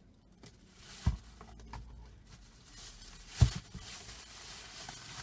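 Products and packaging being handled: rustling with a few knocks, the loudest about three and a half seconds in.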